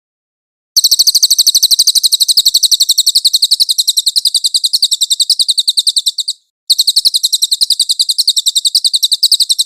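Songbird's fast, even trill of high repeated notes, about ten a second, starting abruptly under a second in, breaking off briefly a little past six seconds and resuming. A recorded masteran track of the kind played to tutor songbirds for singing contests.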